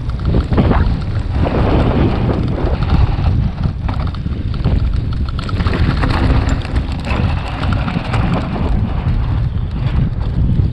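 Wind buffeting the microphone of a camera on a moving e-bike: a loud, gusting rumble that swells and dips, with scattered small knocks and rattles from the ride over rough ground.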